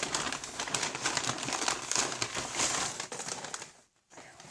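Takeout packaging crinkling and rustling as it is handled, a dense crackle that stops abruptly about three and a half seconds in.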